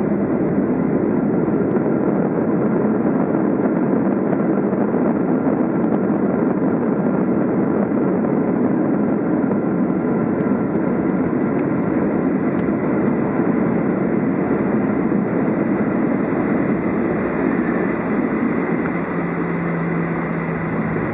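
Steady cabin noise inside a Boeing 737-700 during its arrival: engine and airflow noise, easing slightly near the end as a low steady hum comes in.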